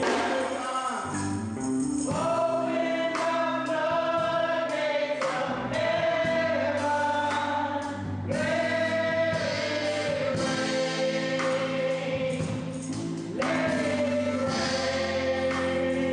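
Gospel music: a choir singing held notes over instrumental accompaniment with light percussion.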